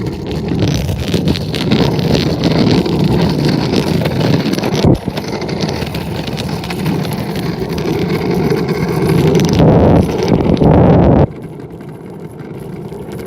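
Scooter riding along, heard from on board: a steady rumble of small wheels rolling over pavement with rattling clicks and wind on the microphone. There is a sharp knock about five seconds in, and the noise drops off suddenly about eleven seconds in.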